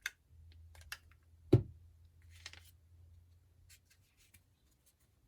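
Handling noises on a craft table: scattered light clicks and taps, with one louder thump of something set down about a second and a half in.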